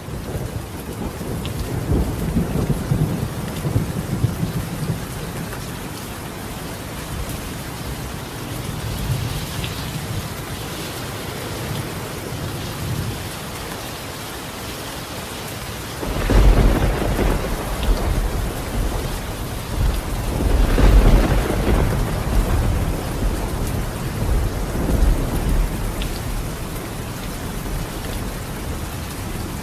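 Steady heavy rain falling on a tiled roof, with rolling thunder. A rumble comes in the first few seconds, and two louder, deeper rolls come past the middle.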